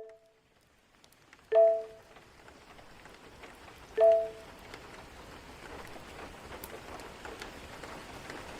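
A soft two-note chime rings twice, about a second and a half in and again about four seconds in, each strike dying away quickly. Gentle rain fades in with the first chime and goes on as a steady hiss.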